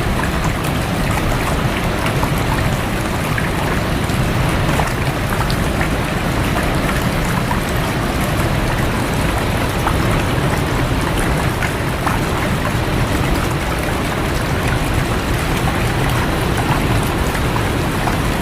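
A stream of rushing water running steadily, with rain falling on it and scattered drop ticks through the rush.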